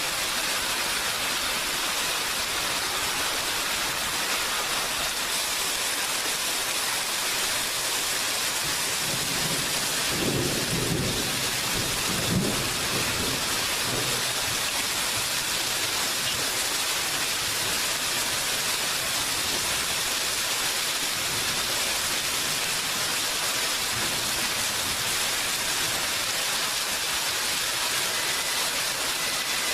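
Steady rain, with a low rumble of thunder about ten seconds in that lasts a few seconds and has a sharp peak near its middle.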